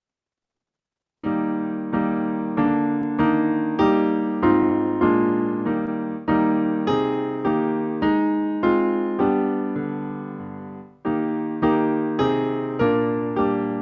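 Piano playing slow, evenly struck chords as the introduction to a hymn, starting about a second in after silence. Near the middle one chord is held and dies away before the chords start again.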